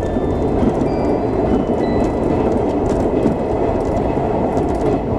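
Steady running noise of a 381-series electric limited-express train at speed, a dense low rumble heard from inside the car at the front.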